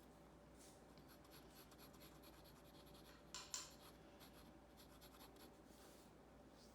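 Faint scratching of a pencil on paper, drawing short feather strokes, with two louder strokes about three and a half seconds in.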